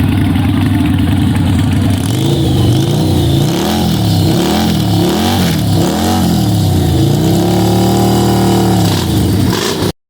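Loud motorcycle engine revved over the rumble of other idling engines: several quick blips rising and falling, then held high for a couple of seconds before dropping back.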